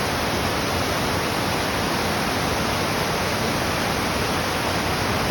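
A cascading mountain waterfall running in full flow, raging: a loud, steady rush of falling water with no breaks.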